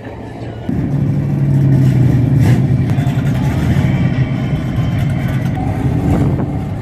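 A car engine running close by. It comes in suddenly about a second in and holds a steady low drone.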